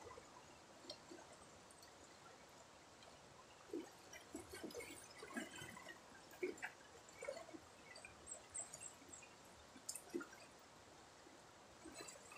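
Faint river water trickling and gurgling, with many small drips and plops, busiest in the middle.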